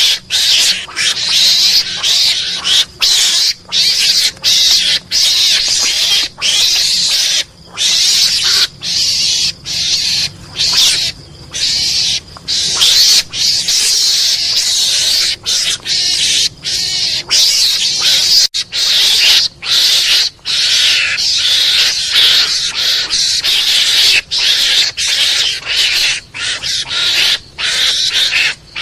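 Recorded mongoose calls played as a hunting lure: harsh, hissing screeches and chatters in rapid bursts with short breaks between them.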